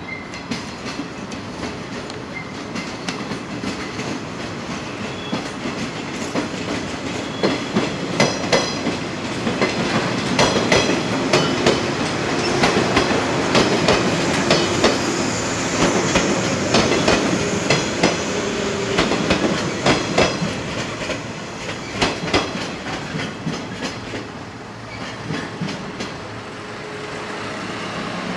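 JR West 115 series electric multiple unit passing close by: its wheels clicking over the rail joints in a steady clickety-clack that builds up, is loudest while the cars go past, and fades as the train moves away.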